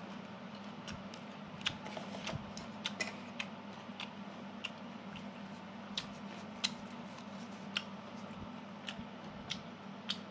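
A person chewing food close to the microphone, with irregular sharp mouth clicks and smacks, over a steady low hum.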